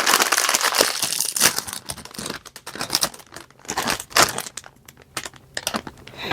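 Plastic snack-chip bag crinkling as it is torn open and handled, in irregular crackling bursts that thin out about five seconds in.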